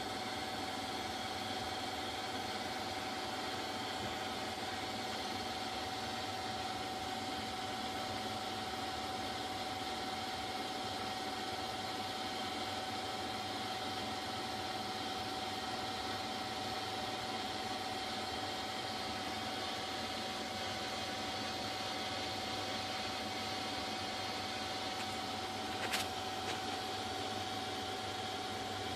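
Dishwasher running: a steady machine hum and rush with one held tone, and a single brief click near the end.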